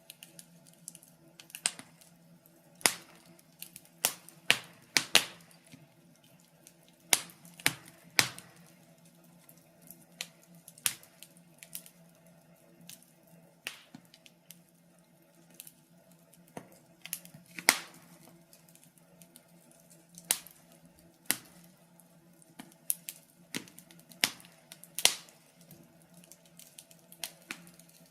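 Wood fire in a fireplace crackling: irregular sharp pops and snaps at uneven intervals, some louder than others, over a faint steady low hum.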